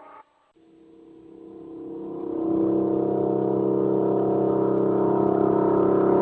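After a brief silence, a steady drone of several held pitches fades in over about two seconds, then holds level, like a sustained synthesizer chord.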